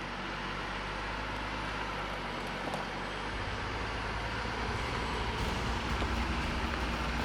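A 4x4's engine running at low crawl speed as the vehicle works slowly over a rocky shelf obstacle. The engine note deepens and gets louder about three seconds in, as more throttle is fed in to climb.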